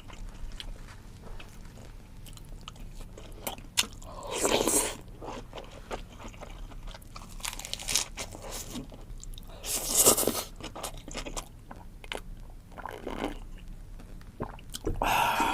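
Close-miked eating of crunchy food: small crackling chews throughout, with louder crunching bites about four and a half, ten and thirteen seconds in, and again near the end.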